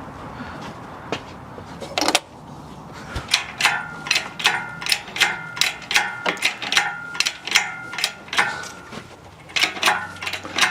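Metal ratchet clicking in a steady series of sharp clicks, roughly three a second, each with a short metallic ring, after a single louder click about two seconds in.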